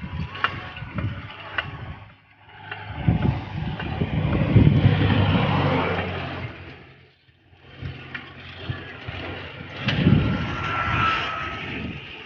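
Motor vehicles with engines, one after the other, passing on a road. Each swells up loud and then fades away, the first a few seconds in and the second about ten seconds in.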